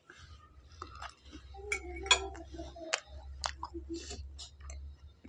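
Close-miked chewing of a mouthful of bread omelette: a run of short wet mouth clicks and smacks with a few brief throaty noises, over a steady low electrical hum.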